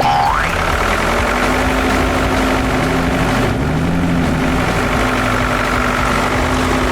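Tractor engine running steadily at a low, even pitch, with a short rising whistle-like glide just after the start.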